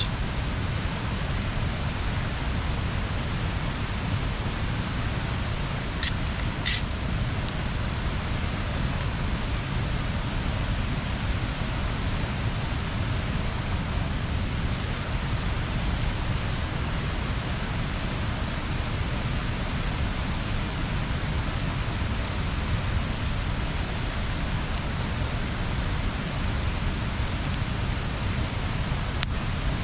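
Wood bonfire burning with a steady noise of the flames, broken by a few sharp pops of the burning wood about six to seven seconds in.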